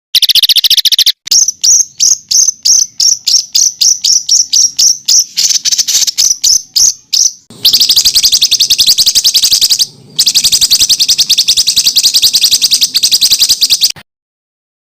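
High-pitched songbird song in rapid-fire phrases: a quick trill, then a run of sharp repeated notes about four a second, then a long, dense rattling trill with a short break in the middle, each section starting and stopping abruptly.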